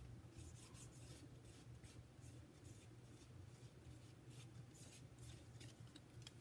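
Near silence with faint, scattered rubbing and light ticks of paper or cardstock being handled.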